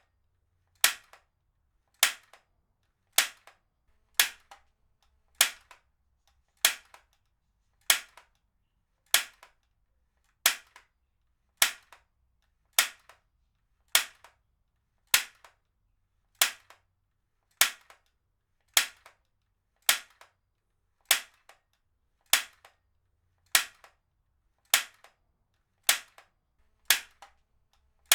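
Heavy-duty stapler fired over and over, a sharp snap about every 1.2 seconds, each followed by a fainter click.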